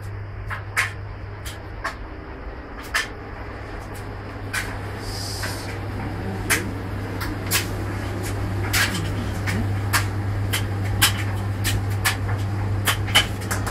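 Noble Boss washing machine running a wash cycle: a steady low hum with irregular clicks and knocks.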